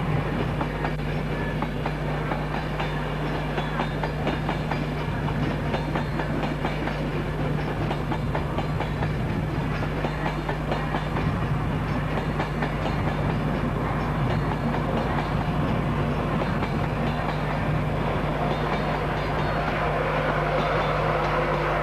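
Train moving on the track, its wheels clicking rapidly over the rail joints over a steady low hum.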